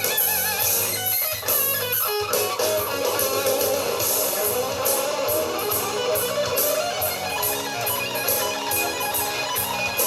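Hard rock band playing an instrumental passage: a distorted electric guitar lead with wide vibrato on held notes over bass guitar and a steady drum beat.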